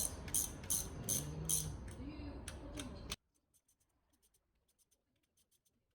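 A run of light, sharp clicks, about three a second, over a low hum. The sound cuts off abruptly about three seconds in, leaving near silence with a few faint ticks.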